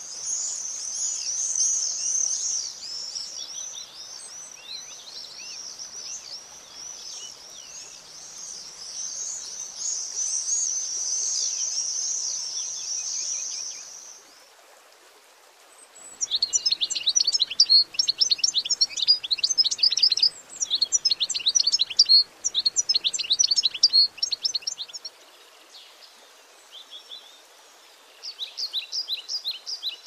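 Several common swifts calling, a continuous chorus of high, shrill calls for roughly the first half; then, after a short lull, European goldfinches singing a fast, twittering song, which fades out and returns briefly near the end.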